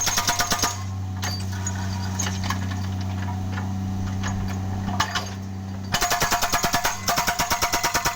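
Excavator-mounted hydraulic breaker hammering road concrete in rapid blows, about six a second. It stops just under a second in, leaving the excavator's engine running with a steady low hum and a few knocks, then resumes hammering about six seconds in.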